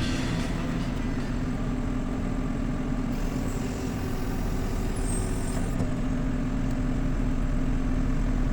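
JCB 3CX backhoe loader's diesel engine running steadily with an even drone.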